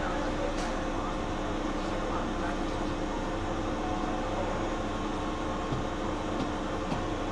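Interior running noise of a Keihan electric train heard from the front of the car: a steady rumble with a constant hum.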